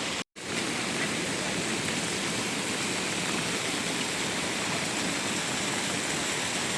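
Steady rush of water, an even hiss with no rhythm or distinct drops. It cuts out completely for a moment about a third of a second in, then carries on unchanged.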